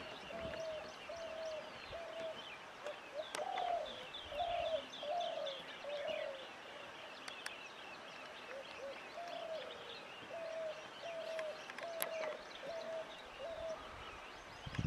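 A bird calling a long series of short hooting notes, one every half-second or so, on a steady pitch, with a pause in the middle. Fainter high chirps of other birds sound over it in the first half.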